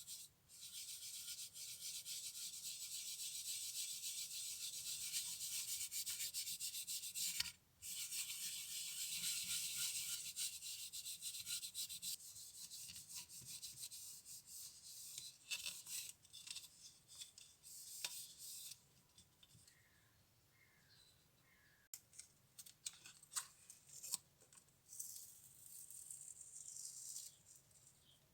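Abrasive rubbing by hand on a small part. Steady strokes run for about seven seconds, stop briefly, then continue for about four seconds more. After that come lighter, scattered strokes and a few small clicks.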